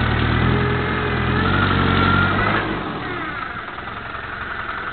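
Off-road 4x4's engine running at low revs as the vehicle crawls over a rock, dropping back quieter about two and a half seconds in.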